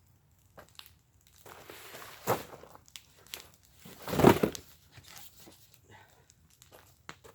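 Wood fire in a fire pit crackling, with scattered sharp pops. There is a louder crackling burst a little over two seconds in and the loudest one about four seconds in.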